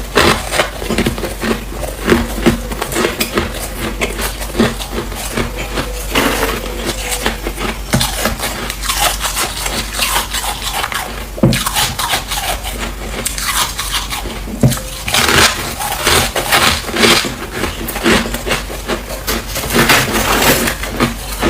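Freezer frost being scraped and crunched close up: a dense run of crisp crackles with a few sharper, louder crunches.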